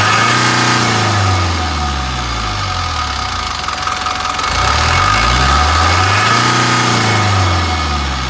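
Hino S05D four-cylinder diesel engine of a Hino Dutro truck being revved and let back down, twice: one rev easing off about a second in, another climbing from about halfway and falling again near the end. A steady high whine runs under it.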